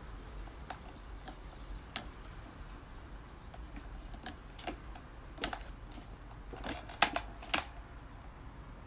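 Scattered clicks and knocks of plastic electric-fan parts being handled and fitted during reassembly, the loudest a quick cluster of three near the end, over a steady low hum.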